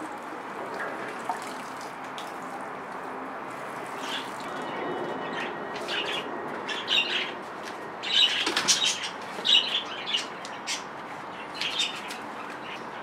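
Small birds chirping, a quick run of short, high chirps, thickest a little past the middle, over a steady background hiss.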